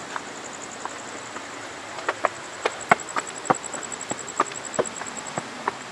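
A cricket trilling in a fast, even high-pitched pulse that stops shortly before the end. From about two seconds in there are a dozen or so sharp, irregular knocks.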